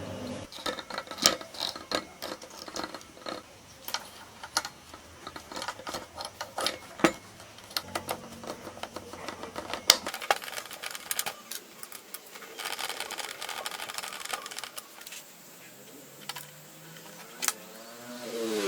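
Small metal parts and hand tools being handled on a workbench: irregular clicks, taps and light clinks.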